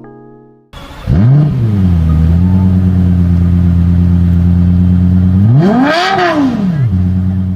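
Car engine cold start: it fires up about a second in with a brief rev flare, then settles into a steady fast idle. About five and a half seconds in there is a single throttle blip that rises and falls before it drops back to idle.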